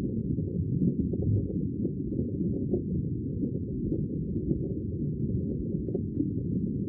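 Muffled, rumbling sea sound: a steady wash of deep water noise with all the higher sounds cut away.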